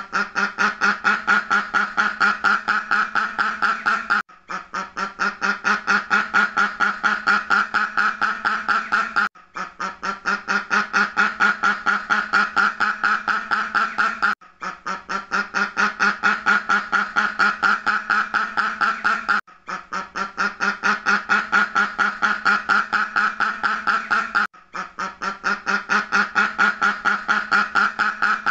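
Duck quacking in fast, continuous runs of quacks. Each run lasts about five seconds and is broken by a brief pause, so the pattern repeats at an even pace.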